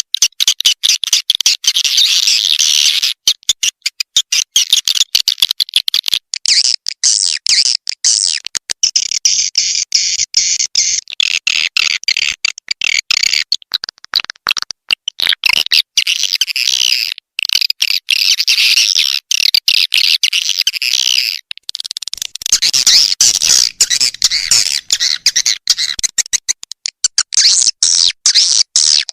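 Swiftlet call recording of the kind used to lure edible-nest swiftlets to a bird house: dense, rapid, high twittering chirps and clicks. Its texture switches abruptly every few seconds, with many sharp cut-outs, as a looped, edited mix does.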